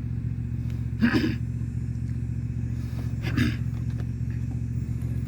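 Steady low hum of a running vehicle engine, with two short breathy sounds about a second in and just after three seconds.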